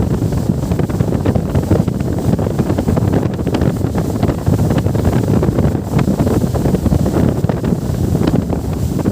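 Wind buffeting the microphone aboard a moving boat: a loud, steady rumble with a few sharp ticks through it.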